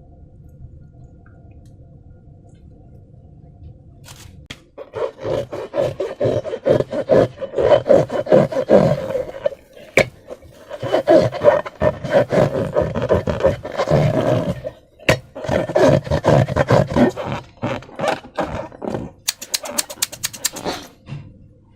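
Hands squishing and kneading slime, giving a run of irregular squelches and crackles that starts about five seconds in. The squelching ends in a quick string of clicks near the end; before it there is only a faint low hum.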